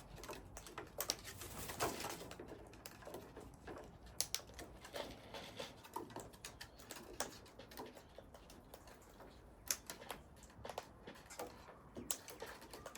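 A flock of long-billed corellas and cockatoos feeding on the ground: irregular sharp clicks and cracks of beaks pecking at food, with a few soft calls.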